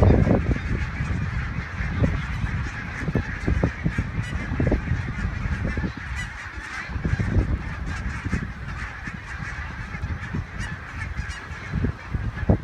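A flock of geese honking, the calls running on without a break.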